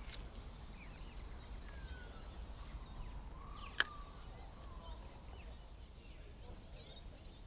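Quiet waterside ambience: a steady low rumble of wind on the microphone, a few faint bird calls, and one sharp click about four seconds in.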